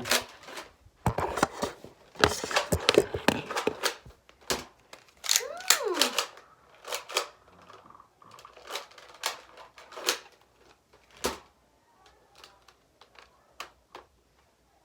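Plastic clicks and clacks of a Nerf blaster being handled and loaded, its priming slide pulled back and pushed forward, in a quick run at first and then more spaced out. A short falling squeal comes about six seconds in.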